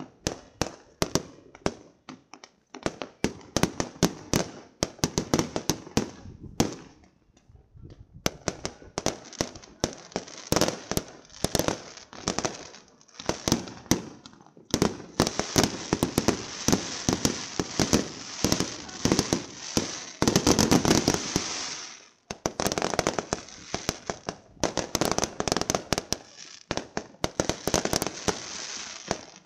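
Fireworks bursting in quick succession, a rapid string of sharp bangs and crackles with a short lull about seven seconds in. From about halfway through, the bursts thicken into an almost continuous crackle that peaks about two-thirds of the way in before it briefly drops away.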